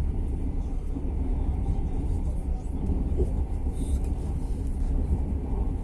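Steady low rumble of a passenger train running, heard from inside the carriage, with a faint short tick a little before four seconds in.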